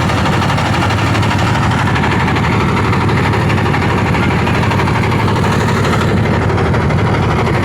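A boat's engine running steadily with a deep low hum.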